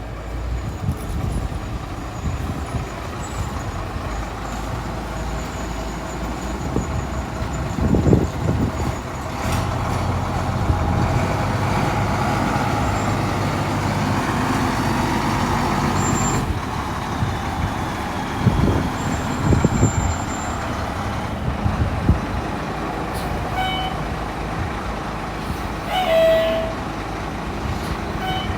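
Fire engine's diesel engine running as the truck drives up, louder for a stretch in the middle, with a few sharp hisses or knocks and a short beep near the end.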